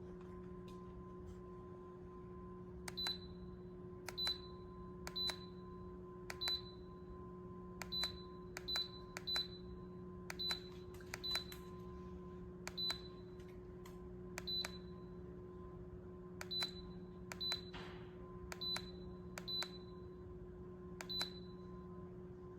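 Electric fireplace control beeping once for each remote button press while the flame and rock colours are cycled: about twenty short high beeps, roughly one a second at an uneven pace, over a steady low electrical hum.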